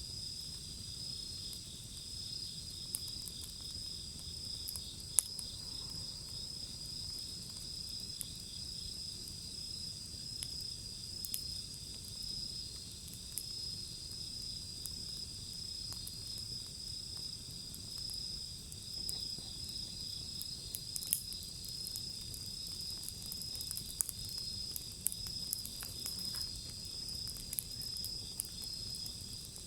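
Wood fire crackling, with scattered sharp pops, two of them much louder, about five seconds in and about twenty-one seconds in. Under it runs a steady high, pulsing chirring of insects.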